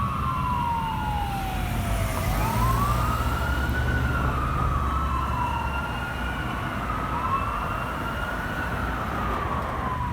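Two emergency sirens, a fire engine's and a rescue ambulance's, wailing out of step with each other. Each pitch sweeps slowly down and then back up, so the two cross and clash, over the low rumble of the trucks' diesel engines.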